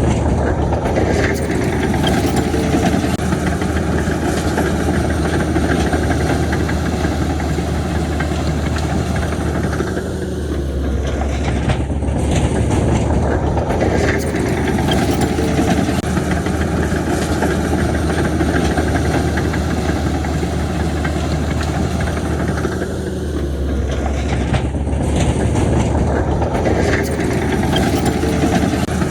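Heavy diesel construction machinery engines running steadily under load, with a deep low rumble. The sound eases briefly twice, about thirteen seconds apart.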